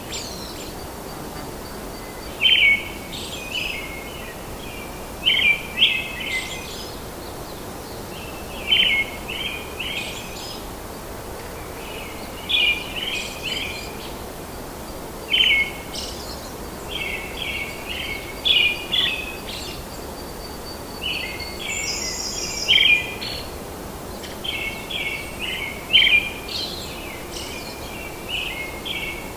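Birds chirping in short bursts of quick notes, repeated every second or two, over a steady background hiss. A thin, higher call is heard briefly about two thirds of the way in.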